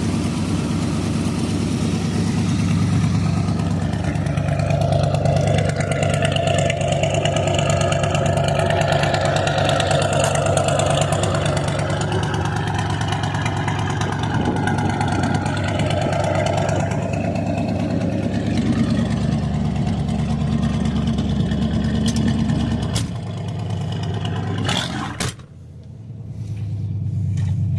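A 1977 car's engine running, its pitch shifting as it revs. About three seconds before the end the sound falls away sharply, then builds back up.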